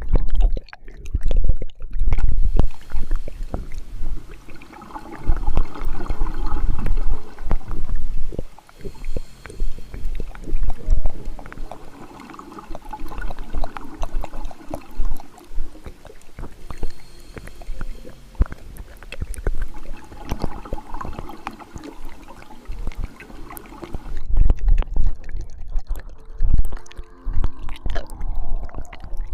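Close, wet mouth sounds of ear-licking ASMR into a binaural microphone: irregular moist clicks and slurps, with low thumps where the mouth presses on the mic.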